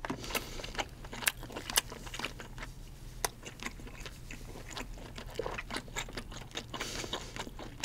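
Close-miked chewing of a mouthful of cooked king crab meat, with irregular wet mouth clicks and smacks.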